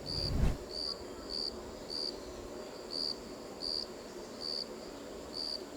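A cricket chirping: short high chirps repeated about once every 0.7 seconds, with a brief low thump just after the start.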